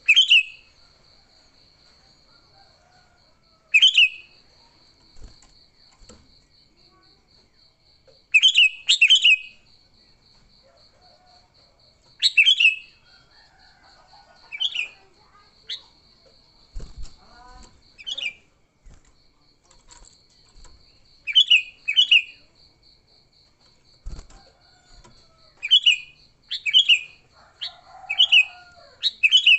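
Sooty-headed bulbul (kutilang) giving short, loud, downward-sweeping calls, singly or in quick pairs every few seconds and more often near the end: the agitated, fighting-style calls used to lure other bulbuls. A faint, steady, rapid high-pitched pulsing runs behind the calls.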